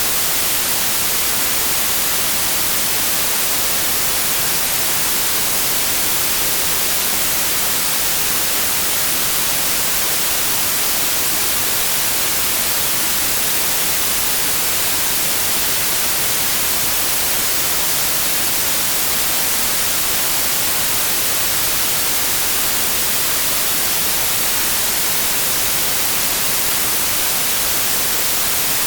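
Steady synthetic white noise: an even, unchanging hiss across the whole range, strongest in the highs.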